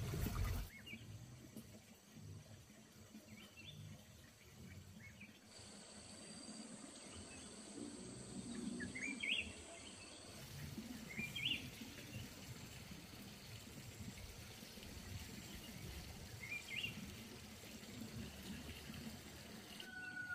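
Faint outdoor ambience with a bird giving a few short rising chirps, the clearest about nine and eleven seconds in. Before them comes a brief low rustle of hands in straw mulch right at the start.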